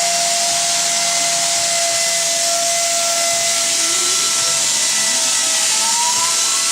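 A steady, loud hiss with a constant whine running through it. A fainter whine rises in pitch starting about four seconds in.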